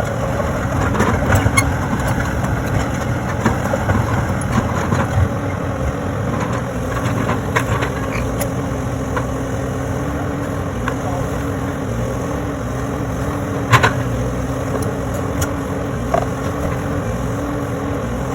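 Excavator's diesel engine running steadily, its pitch wavering slightly, with scattered small clicks and one sharp knock about three-quarters of the way through.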